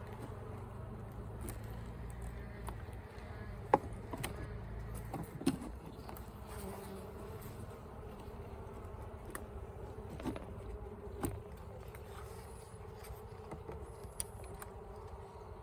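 Honeybees buzzing steadily over an open hive, with a few sharp clicks and knocks from the wooden frames being handled, the loudest about four seconds in.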